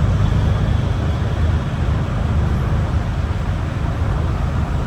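MAN ND323F double-decker bus's diesel engine running steadily under way, heard on board as a low rumble with road and tyre noise over it.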